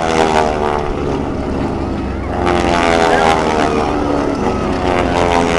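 Radial engines and propellers of North American T-6 Texans running as the formation flies past, the pitch sliding down as they go by. The sound swells again about two and a half seconds in.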